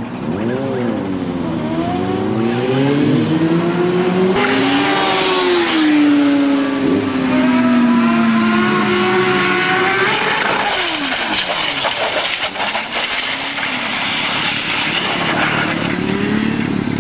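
Motorcycle engine revving, its pitch rising and falling several times, with one long slowly falling note in the middle. A rushing hiss runs over it from about four seconds in.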